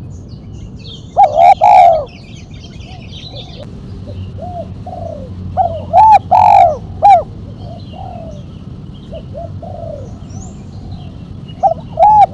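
Spotted dove cooing: three loud phrases of several sharp coo notes, about five seconds apart, with fainter coos in between. Faint high chirps of small birds sound early on.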